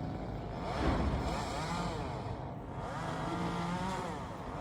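Passing train, its motor whine rising and falling in pitch several times, loudest about a second in.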